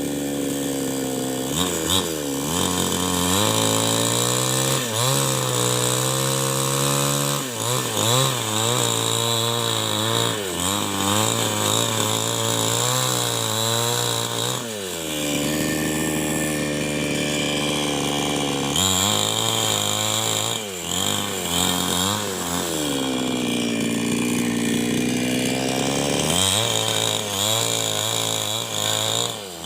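New West 788 two-stroke chainsaw running hard while ripping a log lengthwise into beams. Its pitch repeatedly sags and climbs back as the chain loads up in the cut and frees again.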